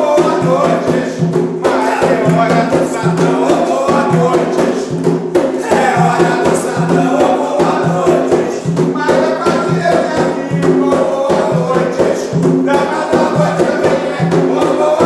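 An Umbanda chant (ponto): voices singing over a steady, regular hand-drum beat.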